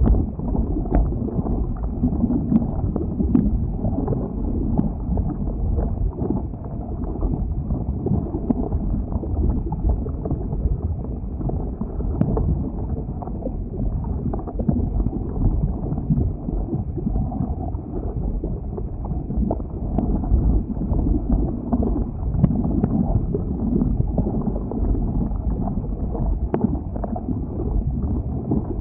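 Flowing lava: a steady low rumble with occasional sharp cracks and clinks scattered through it.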